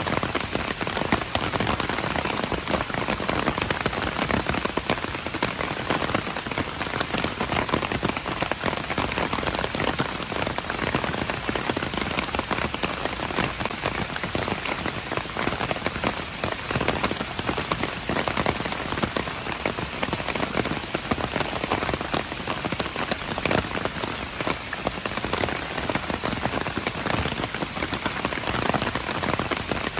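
Steady rain falling: a dense, even hiss of countless drops striking surfaces, unchanging throughout.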